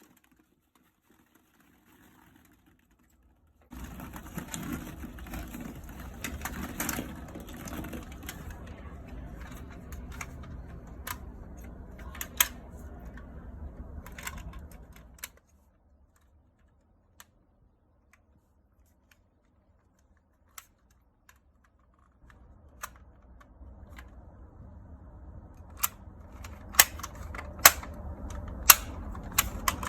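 Plastic toy cars being handled and rolled, a fast rattling clatter with sharp clicks as they knock together. It starts about four seconds in, stops for several seconds midway, then resumes with louder clicks near the end.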